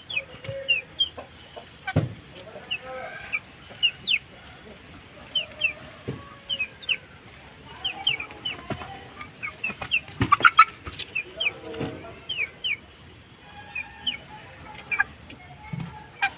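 Aseel chicks peeping over and over in short, high, falling cheeps, with some lower clucking and a few sharp knocks.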